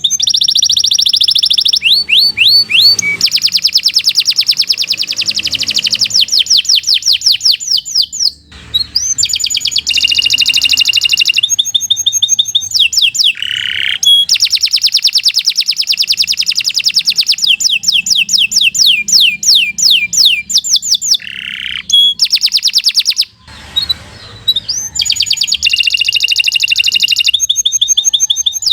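Domestic canary singing long, fast song phrases: rapid runs of repeated trilled notes and held whistles, broken by short pauses about eight seconds in and again near the end.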